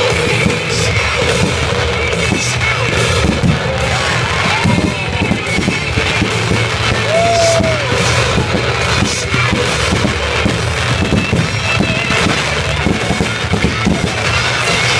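Fireworks crackling and popping over loud music playing throughout.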